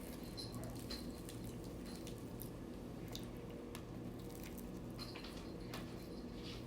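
Faint, wet chewing and mouth sounds of a person eating pizza, with scattered small clicks, over a low steady hum.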